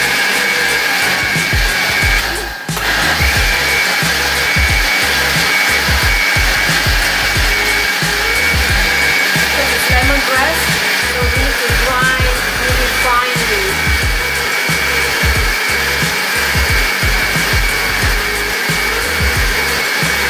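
Countertop blender running at full power, grinding dried chillies into a thick red paste, a steady motor whine over churning. The motor drops out for a moment about two and a half seconds in, then carries on.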